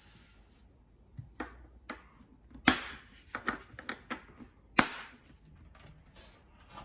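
A series of light knocks and clicks, with two sharp, louder knocks about three and five seconds in.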